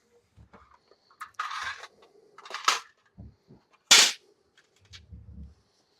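Workshop handling noises: a brief scrape, then two sharp metal clanks, the second the loudest, and a few dull knocks, as metal parts and tools are handled on the surface grinder.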